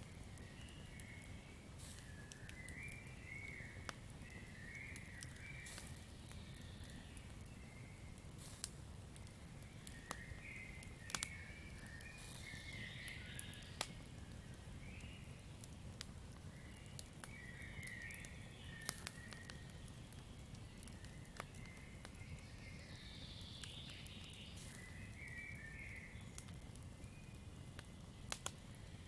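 Campfire crackling, with scattered sharp pops (the loudest about 11 and 19 seconds in) over a low steady rumble. Warbling chirpy calls of a night forest creature come in short runs every few seconds.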